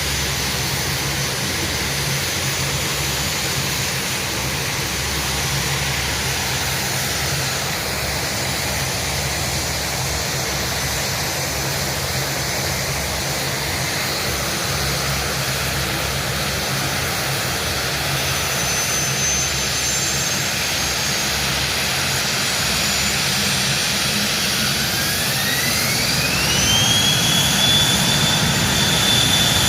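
Jet aircraft engine running with a steady rush and thin high whines; about 24 seconds in a whine rises in pitch and then holds steady as the engine spools up, growing a little louder.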